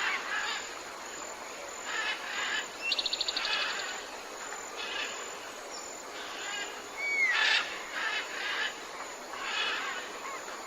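Several tropical forest birds calling: repeated harsh calls, a rapid trill of about a dozen notes a little under 3 s in, and a short curving whistle about 7 s in.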